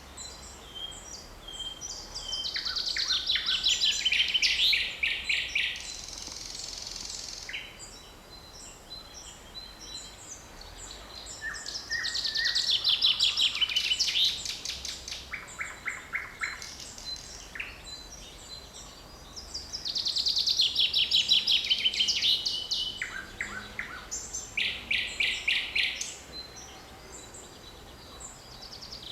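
Woodland birdsong. One songbird repeats a loud song phrase three times, about every eight to ten seconds: a quick run of notes falling in pitch, each phrase lasting about three seconds. Other birds call and chirp more quietly in between.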